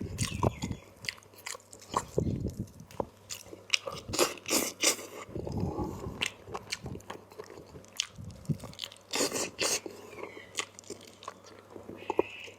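A person eating into a close microphone, chewing and biting with irregular crunches and sharp mouth clicks, a mouthful of chicken curry.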